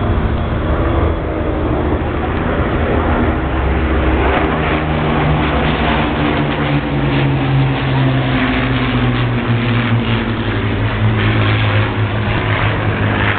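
Rolls-Royce Merlin piston aero engines of a Second World War warbird flypast (Lancaster, Spitfire and Hurricane) droning as they pass, the engine note slowly falling in pitch from a few seconds in.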